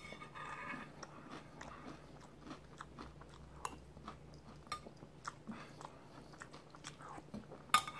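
A person chewing a mouthful of Boo Berry cereal in milk close to the microphone: soft, irregular crunching and wet mouth clicks, with a few sharper clicks among them.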